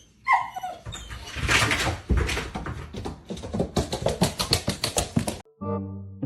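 A dog: a short falling whine just after the start, then about four seconds of quick, rough, noisy sounds that cut off suddenly. Music starts near the end.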